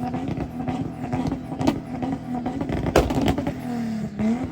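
Car engine running at a steady idle, its pitch dipping and swinging briefly near the end, with a few sharp cracks over it.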